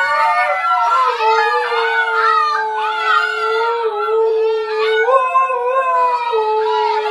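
Dogs howling, several voices overlapping: one holds a long, steady note while the others slide up and down in pitch.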